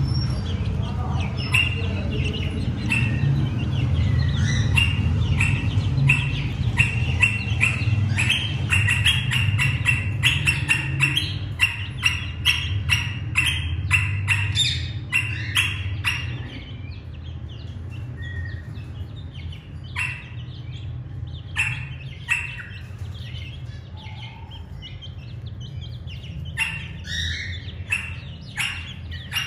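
Small birds chirping with many short, rapid calls, densest in the first half and sparser later. A low steady hum runs underneath and fades about halfway through.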